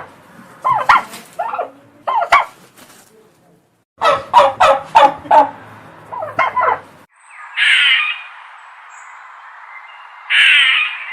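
Bird calls: several bursts of rapid, pulsing calls, then a change to a steady hiss with two loud, harsh calls a little under three seconds apart.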